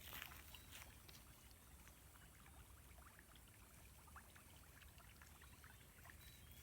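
Near silence: faint outdoor ambience with scattered light ticks.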